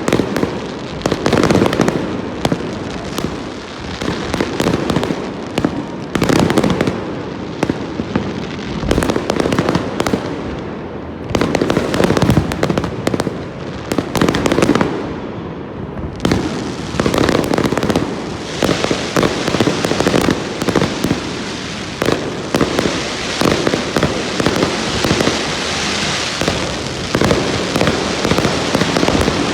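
Aerial fireworks display: shells bursting overhead in rapid, overlapping booms and bangs. About two-thirds of the way through, a dense, steady hiss builds up over the bursts.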